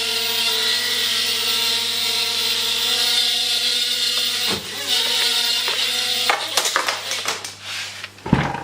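Palm-sized flying saucer toy drone's motors and propellers whirring steadily. They cut out about six seconds in, followed by scattered clicks and a knock near the end.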